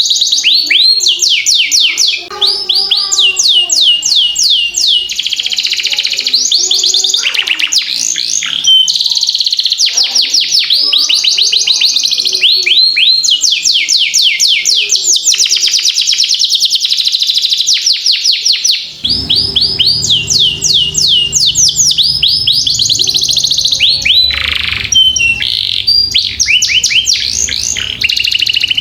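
Domestic canary singing a long, continuous song of fast rolled trills, each run of rapidly repeated notes giving way to the next with hardly a break. A low hum joins in about two-thirds of the way through.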